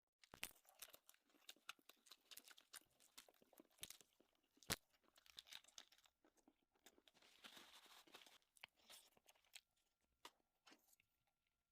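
Faint crunching and chewing of food: an irregular run of small crisp clicks and crackles, with one sharper click about halfway through.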